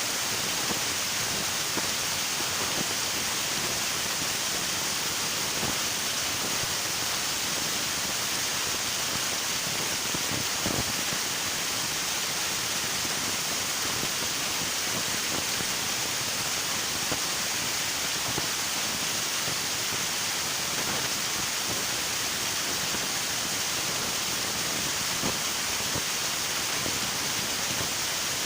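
River water rushing and splashing in a steady, even hiss, with a few faint brief splashes or knocks.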